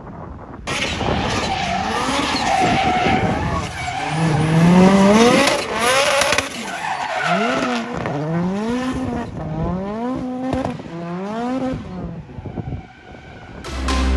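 Drift car sliding with its tyres squealing and its engine revving hard; from about four seconds in the revs rise and fall over and over, about once a second, and the sound fades near the end.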